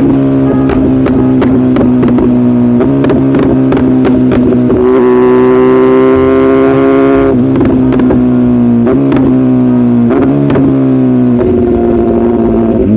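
BMW S1000RR inline-four engine running under way, loud and steady, its pitch sagging slowly and then stepping up or down every two or three seconds as the throttle and gears change.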